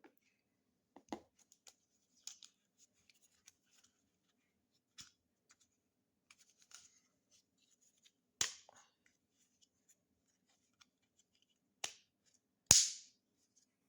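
Light handling noises: scattered small clicks and taps, with three sharper knocks in the second half, the last the loudest.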